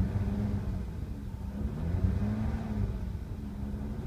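2002 Ford Taurus 3.0 L Duratec DOHC V6 running at about 2000 rpm, its speed wavering up and down; the tester takes this for the engine running out of fuel.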